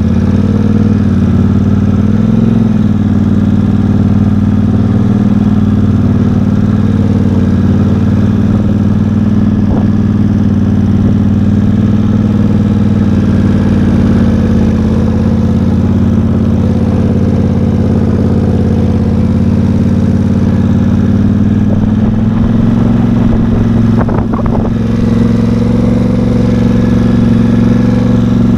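Off-road vehicle engine with a nearly straight-piped exhaust running steadily under light load while riding. Its note changes about three-quarters of the way through, with a short rise in revs shortly after.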